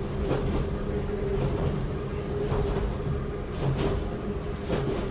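Cab-less interior running sound of the Kanbara Railway Moha 31 electric railcar under way: a steady rumble and hum, with wheels clicking over rail joints about once a second, sometimes in quick pairs.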